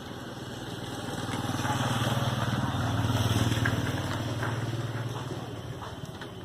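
A motor vehicle's engine going past, its steady hum growing louder to a peak midway and then fading away.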